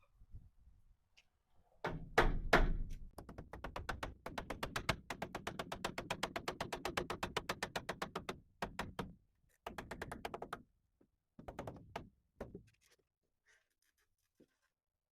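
A power tool driving a screw into wooden framing: a fast run of knocks, about eight a second, lasting some seven seconds, then three short runs as the fastener is snugged down.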